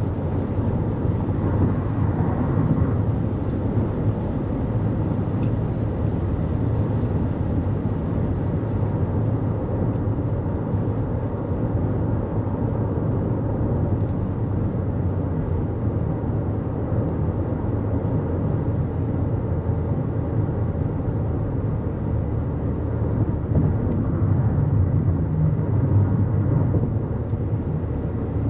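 Steady road and tyre noise from a 2024 Toyota Corolla Cross cruising at highway speed, deep and even. It swells slightly about two seconds in and again near the end.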